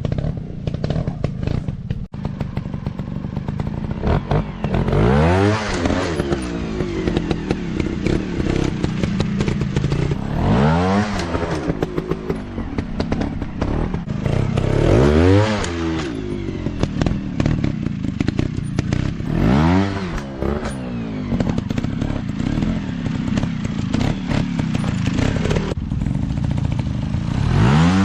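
Off-road dirt bike engine running with repeated blips of the throttle: about five times the revs rise sharply and fall back, a few seconds apart, with clattering and thuds between them.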